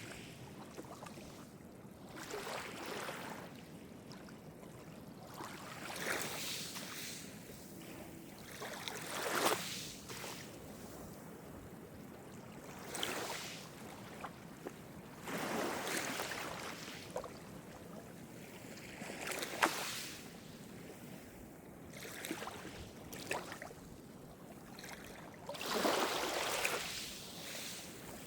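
Small Mediterranean waves breaking and washing up the shore, a swell of hissing surf every three to four seconds.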